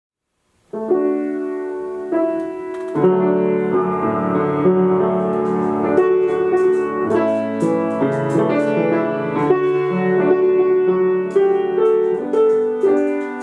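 Piano playing slow, sustained chords with no singing, coming in about a second in after a moment of silence.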